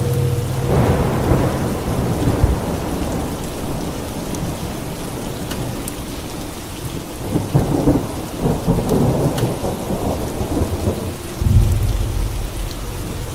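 Steady rain with rolling thunder: one rumble about a second in and a longer, crackling peal from about seven to eleven seconds in. A low steady hum sits under it at the start and comes back near the end.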